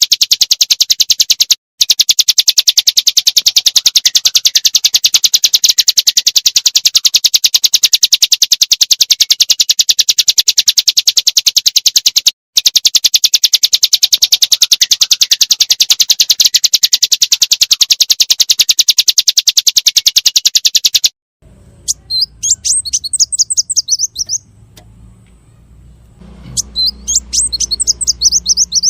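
Small songbird song: a very fast, evenly repeated high-pitched trill that runs for about twenty seconds with two brief breaks. It then cuts to short bursts of quick high chirps, twice, over a low hum.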